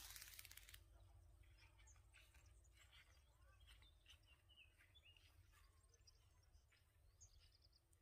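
Near silence in an open meadow, with faint wild bird chirps scattered through. A short hiss sounds at the very start.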